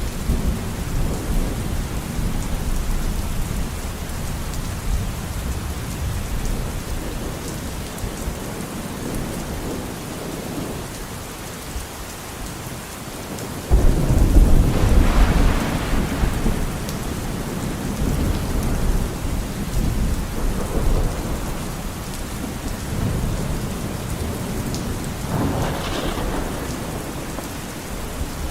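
Thunderstorm: steady rain with rolling thunder. About halfway through, a sudden loud thunderclap breaks in and rumbles on for a few seconds, and a smaller crack of thunder comes near the end.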